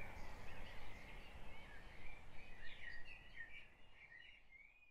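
Birds singing, quick chirps and warbles over a low steady rumble, fading out toward the end.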